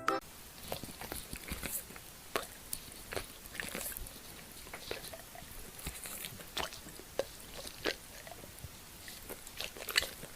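A dog chewing, with quiet, irregular clicks and wet smacking sounds.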